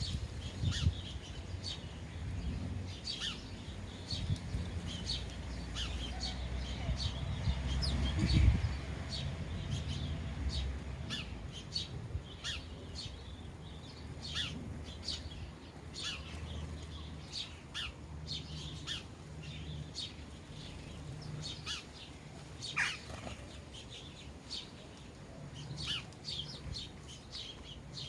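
Sparrows chirping at bird feeders: many short, separate chirps throughout, over a low rumble with a dull thump about eight seconds in.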